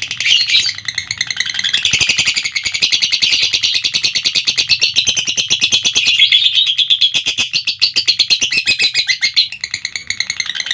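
Lovebird giving a long, unbroken 'ngekek' chatter: a rapid run of shrill, harsh notes.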